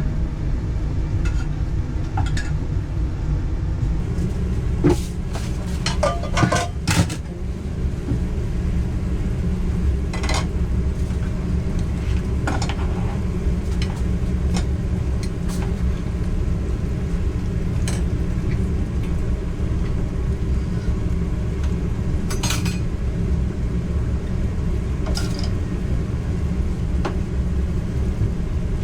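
A steady low rumble with occasional clinks and knocks of dishes and utensils, a small cluster of them a few seconds in and single ones scattered after.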